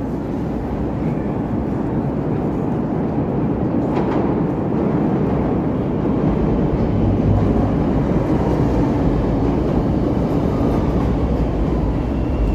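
Chicago Pink Line rapid-transit train running on its tracks: a continuous low rumble that grows louder over the first few seconds, with one sharp click about four seconds in.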